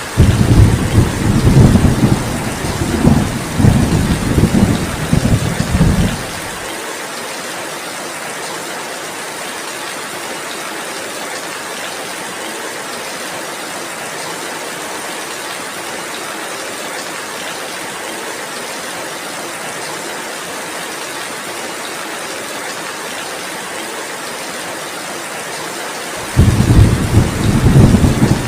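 Steady heavy rain, with thunder rumbling loudly through the first six seconds, then stopping abruptly, and rumbling again near the end.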